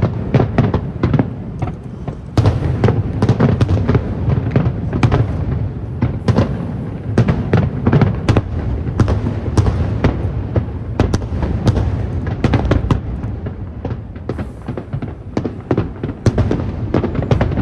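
Fireworks display: a dense, continuous barrage of sharp bangs, several a second, over a steady low rumble.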